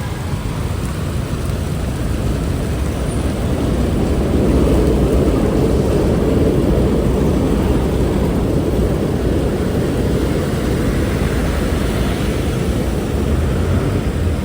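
Street traffic noise: a steady low rumble with a motor vehicle's engine swelling louder as it passes about four seconds in, then easing off.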